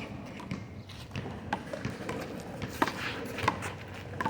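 Handball rally: sharp slaps of the small rubber ball off hands, the wall and the court. The slaps come about two-thirds of a second apart in the second half.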